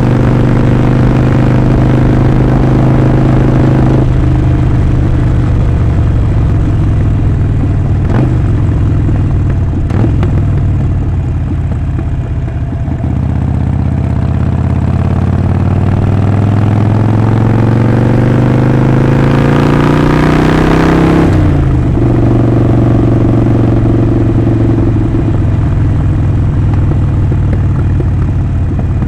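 Harley-Davidson Sportster 48's air-cooled 1200 cc V-twin engine and exhaust under way on a ride. It runs steadily, then eases off about four seconds in with a couple of sharp clicks. Next it accelerates in one long rising pull, cut off suddenly about three quarters of the way through, before settling back to steady cruising.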